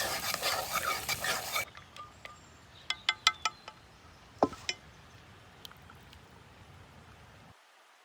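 Cookie dough being stirred and scraped in a mixing bowl for about a second and a half. Then a utensil clinks sharply against the dish about five times in quick succession, followed by two knocks.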